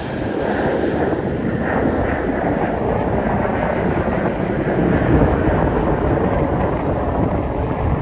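Jet airliner engine noise, a steady, loud rush.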